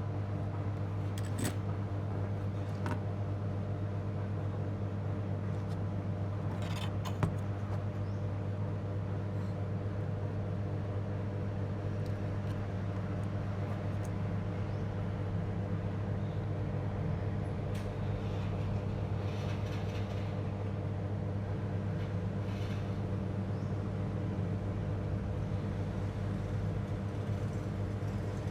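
Steady low electrical hum on a repair bench, with a few light clicks and taps, the sharpest about seven seconds in.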